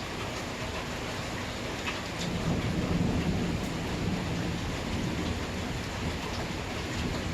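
Steady rain falling during a thunderstorm, with a low rumble of thunder swelling about two seconds in and fading a few seconds later.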